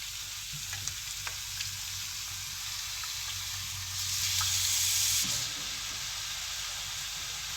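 Onion-tomato masala frying in a hot pan with a steady sizzle and a few light clicks of stirring, as marinated chicken pieces go in. The sizzling turns louder for about a second, about four seconds in.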